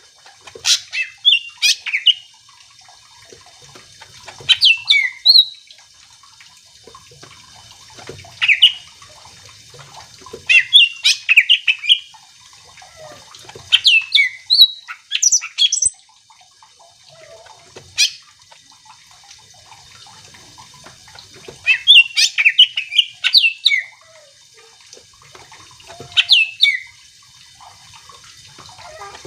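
Greater green leafbird (cucak ijo) in full song: short bursts of quick, varied whistles and chattering notes every few seconds, with brief pauses between phrases.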